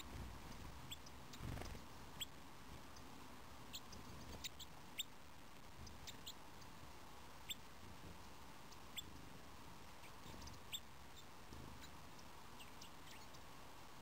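Small garden birds giving faint, thin, high call notes, each very short, scattered about one a second. A soft low thump about a second and a half in.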